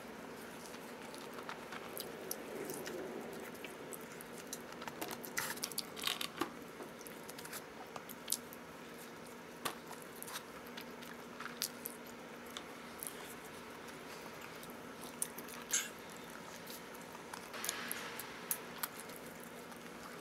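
A person biting and chewing pizza, quietly, with scattered small clicks and crunches of the mouth and crust.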